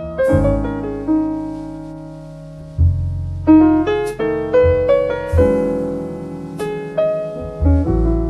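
Solo piano background music: chords and single notes struck and left to ring away, with deep bass notes about three seconds in and again near the end.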